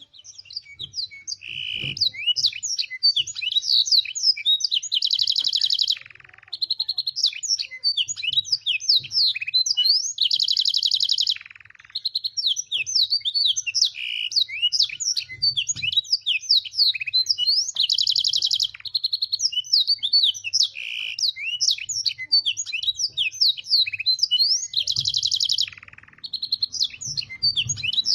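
Domestic canary singing a long, continuous song filled with learned black-throated canary (blackthroat) phrases. Rapid chirps and sweeping whistles are broken every six or seven seconds by a sustained trill about a second and a half long.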